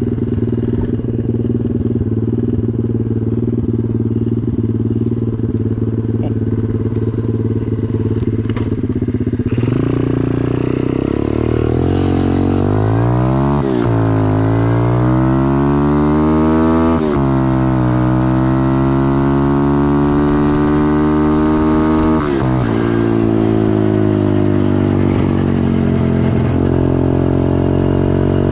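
125cc pit bike's single-cylinder four-stroke engine running at a steady speed, then from about a third of the way in revving up in several rising sweeps, each ending in a sudden drop in pitch before climbing again.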